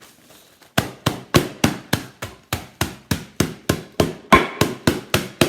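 Digestive biscuits in a plastic zip-lock bag being bashed to crumbs with rapid repeated blows, about three or four a second, starting about a second in.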